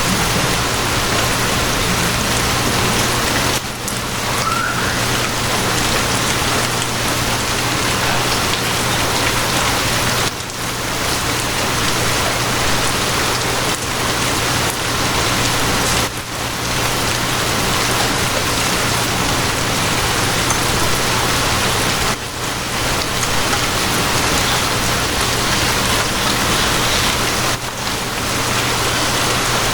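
Steady rain falling on a surface, with a constant low hum underneath; the rain dips briefly about every six seconds.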